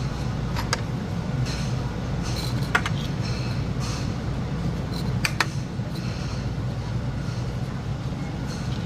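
Steady low rumble of a truck's engine heard inside the cab, with a few sharp light clicks.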